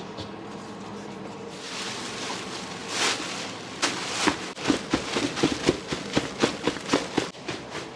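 Noodle-kitchen work: a rush of noise about three seconds in, then a regular run of sharp knocks, about three to four a second.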